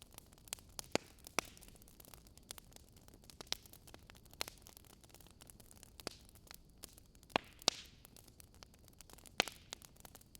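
Wood fire crackling in a fireplace: irregular sharp pops and snaps, a few louder ones about a second in, around seven seconds in and near the end, over a soft steady hiss.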